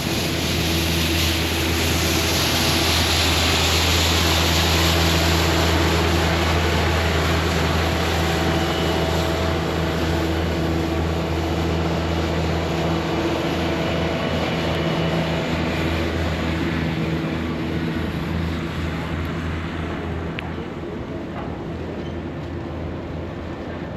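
A large engine running nearby with a steady low hum and a broad rush of noise, fading over the last several seconds.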